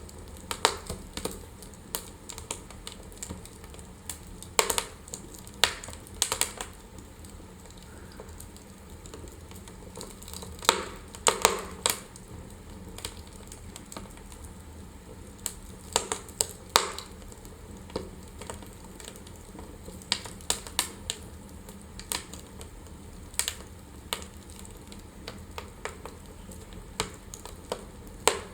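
Wood fire burning in a fireplace, crackling with irregular sharp pops and snaps, some in quick clusters, over a steady low background rush.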